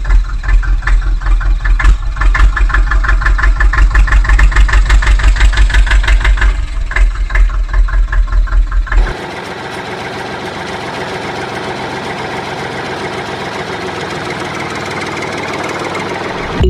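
Small electric motor of a homemade model tractor and water pump running. For about the first nine seconds there is a heavy low hum with a rhythmic knocking of about four beats a second, then the sound changes abruptly to a steadier, thinner whir.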